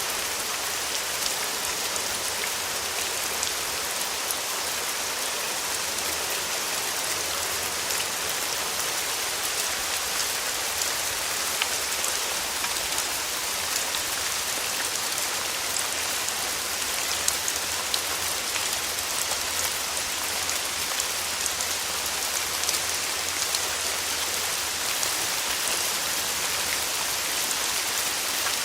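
Steady summer rain falling on a surface, a dense even hiss with many small drop ticks scattered through it.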